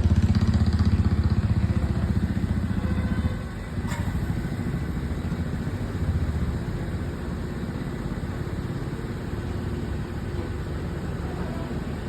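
A vehicle engine running with a steady low throb, louder for the first three seconds and then dropping off, with a short click about four seconds in.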